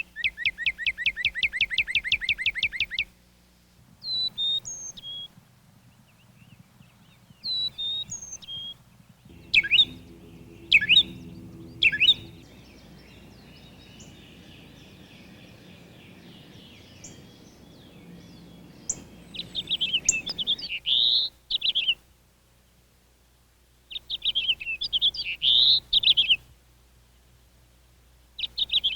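Backyard songbirds in a series of separate short takes: first a fast, even trill lasting about three seconds, then a few short high call notes, three sharp loud calls, and later two bursts of warbling song.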